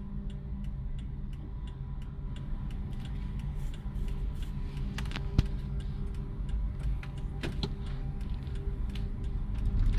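Steady low hum of a car's engine and road noise heard inside the cabin, with an even, regular ticking over the first few seconds. A single sharp click about five seconds in, and two fainter clicks a couple of seconds later.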